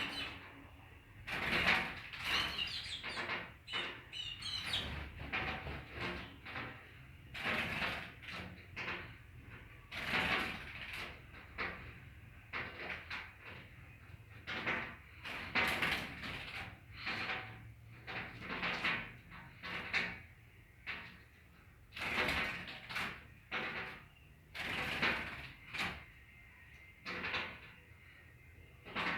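A small bird pecking and fluttering at its own reflection in a mirror, which it takes for a rival bird: irregular knocks, taps and scuffles, with a few quick chirps near the start.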